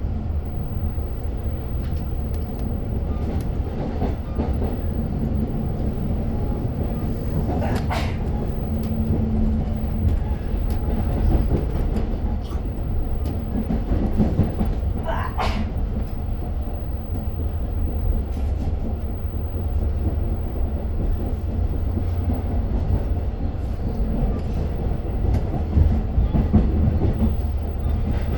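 Inside a Long Island Rail Road passenger car, the train runs steadily along the track with a continuous low rumble and rattle and a clickety-clack of wheels over the rails. Two brief, sharper sounds stand out, about eight and fifteen seconds in.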